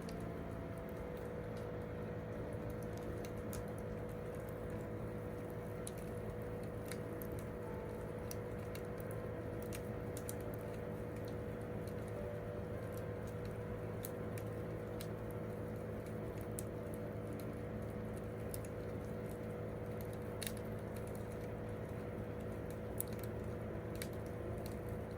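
Wood campfire crackling, with irregular sharp pops and ticks scattered throughout over a steady low hum.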